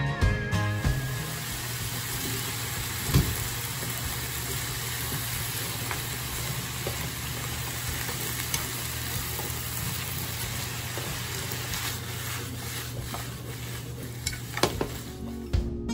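Beef, onions, carrots and potatoes sizzling as they fry in a pan on a gas burner, over a steady low hum. A few sharp knocks come as the pan is shaken near the end.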